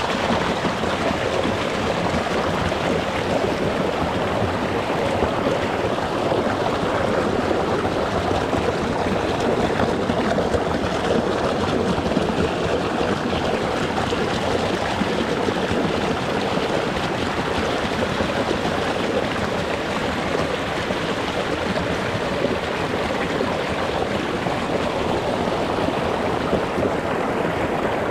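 Small rocky mountain stream running over stones, a steady rush of flowing water close to the water's surface.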